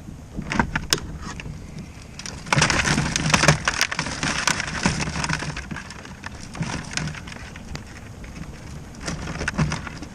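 Rain falling, with scattered sharp clicks and knocks. About two and a half seconds in, a louder, denser rush of noise lasts roughly three seconds.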